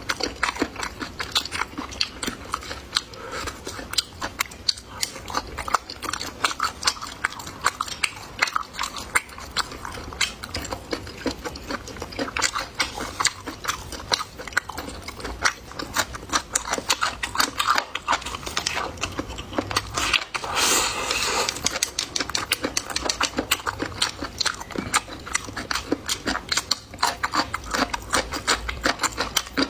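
A person chewing and biting food close to the microphone, a steady run of quick mouth clicks and smacks, with a brief hissy noise about two-thirds of the way through.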